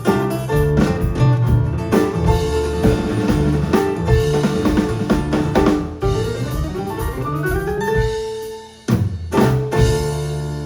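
Live band with drum kit, guitar and bass playing the close of a song. About six seconds in, a rising slide builds up, then come a short break, two accented hits together, and a final chord left ringing.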